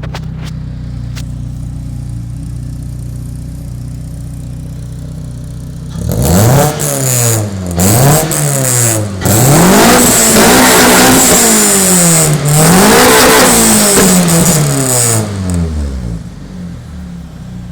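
Toyota Celica's 3S-GE 2.0-litre four-cylinder through a Powerflow aftermarket exhaust, idling steadily, then revved about six seconds in: a few quick blips followed by two longer, held revs, before dropping back to idle near the end.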